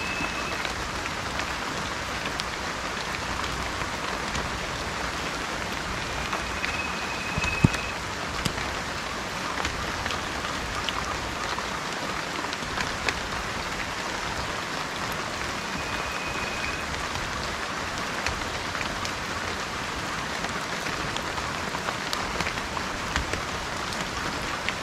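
Steady rain falling, with many small drops ticking through it. A bird's short, level whistle sounds at the start, again about seven seconds in and again about sixteen seconds in, and one sharp, louder drop or knock lands about seven and a half seconds in.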